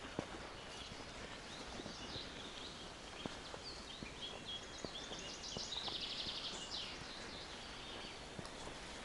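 Small songbirds singing, with several short chirping phrases and a fast buzzy trill about six seconds in. Under them, scattered soft footsteps and twig snaps on the forest floor.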